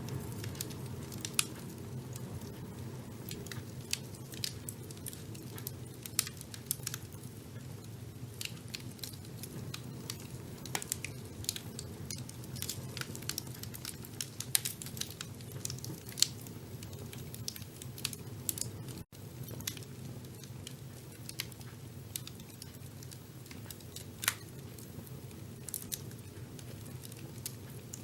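Wood fire burning in a fireplace: a steady low rumble of flames with constant irregular crackling and a few louder pops. The sound cuts out for an instant about two-thirds of the way through.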